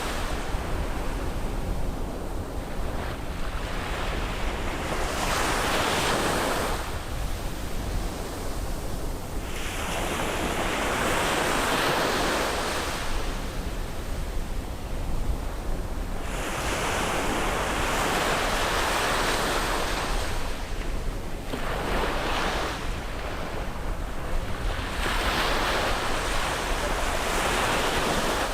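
Sea waves breaking and washing up on a beach, one swell after another every few seconds, over a steady low rumble.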